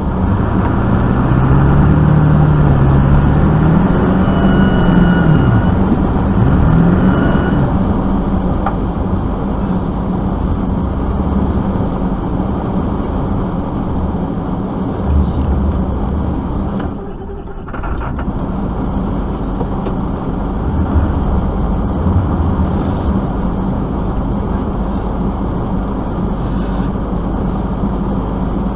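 A vehicle engine running steadily; its pitch rises and falls as it revs during the first several seconds. The sound drops briefly about seventeen seconds in.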